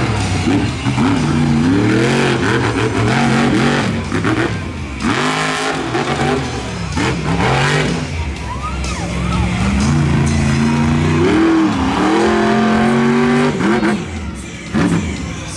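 Monster truck engine revving hard, its pitch climbing and falling again and again as the throttle is worked, easing off briefly about a third of the way in and again near the end.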